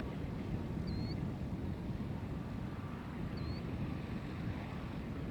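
A steady low rumble, with a short high chirp repeating about every two and a half seconds.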